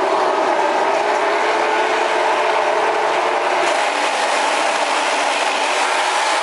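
MotoGP racing motorcycle engines running, a steady, loud mechanical drone.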